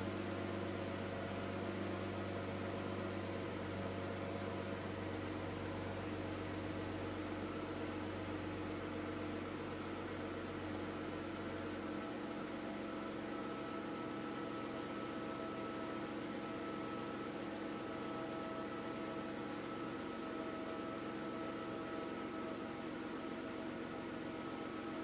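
BMW E36 328i's M52 2.8-litre straight-six idling steadily at about 1000 rpm on a cold start, heard from the driver's seat. The deep low note of the idle fades about halfway through.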